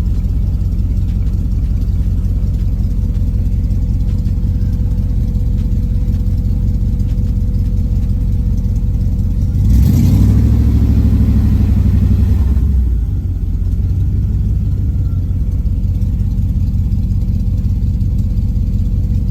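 The 5.3-litre LS V8 in a 1983 Pontiac Firebird idling steadily, revved once about ten seconds in, held for about three seconds, then dropping back to idle.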